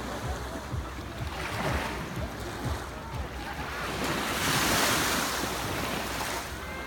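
Sea water washing and lapping, with wind buffeting the microphone in gusts; the rush of water swells louder about four seconds in and eases off again.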